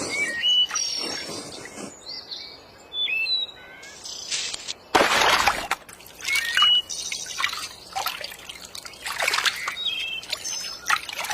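Birds calling with short chirps and whistled notes, mixed with bursts of water noise; the loudest burst comes about five seconds in.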